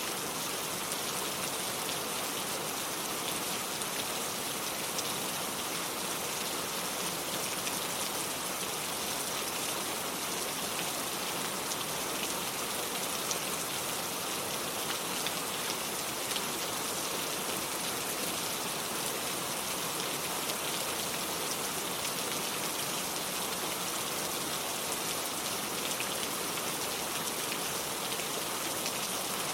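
Steady rain falling, with a dense patter of drops on hard surfaces.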